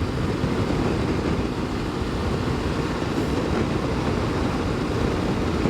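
Steady riding noise from a Triumph Tiger 900 GT Pro motorcycle cruising at speed: a constant, heavy rush of wind and road noise with the engine running underneath.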